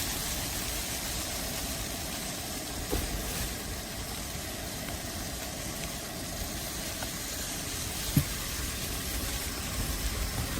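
Steady low rumbling noise, with a small knock about three seconds in and a sharper one about eight seconds in.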